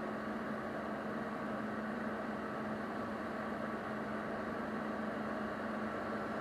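Steady electrical hum with a fan-like hiss from powered-up amplifier test gear.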